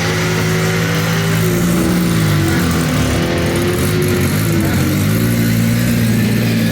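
Car engine running steadily at low speed, its pitch drifting gently up and down.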